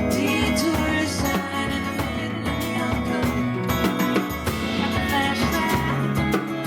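A live band playing an instrumental passage of a song, with guitar over a drum kit keeping a steady beat.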